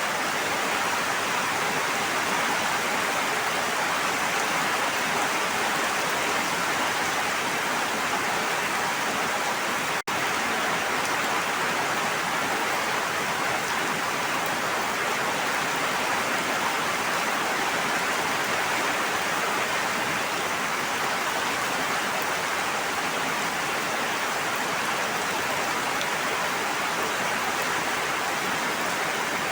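Steady rushing water, an even, unbroken hiss of falling or flowing water. It cuts out for a split second about ten seconds in.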